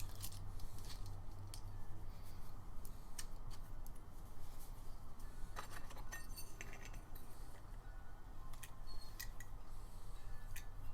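Small metal parts and hand tools clicking and clinking as they are handled, a scatter of short ticks with a busier patch around the middle, over a steady low hum.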